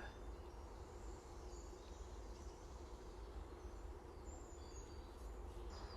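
Quiet woodland ambience: a few faint, brief bird chirps over a low steady rumble.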